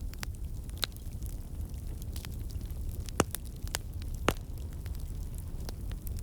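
Fireplace fire crackling: scattered sharp pops and snaps over a steady low rumble. Two louder pops come about three and four seconds in.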